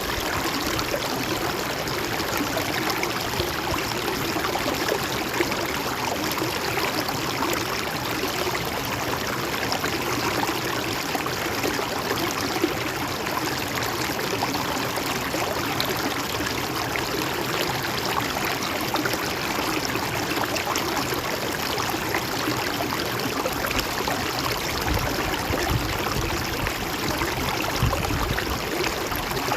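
Stream or river water flowing steadily.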